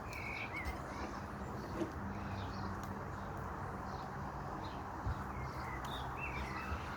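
Short bird chirps, several times, over a steady hiss, with a few sharp pops.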